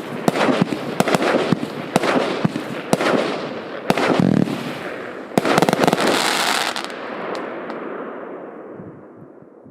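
A 100-shot, 1-inch-calibre fireworks cake firing shot after shot with crackling bursts, a dense flurry of shots about five and a half seconds in, then dying away over the last few seconds as it finishes.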